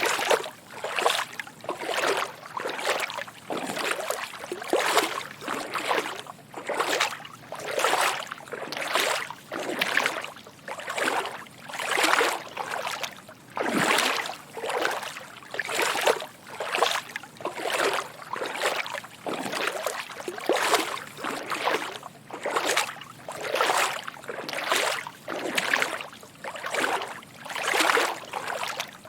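Footsteps wading through shallow water, each step a soft slosh and splash, in a steady walking rhythm of roughly one to two steps a second.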